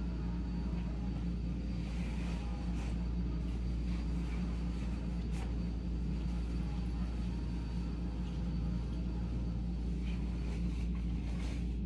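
Vacuum cleaner running steadily: a constant low hum with a faint high whine. A few soft rustles of bed linen being handled come through over it.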